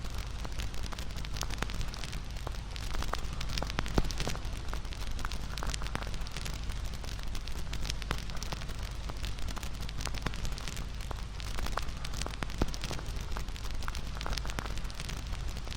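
Wood fire burning with a steady low rumble of flames and frequent irregular crackles and pops from the burning wood, one sharper pop about four seconds in.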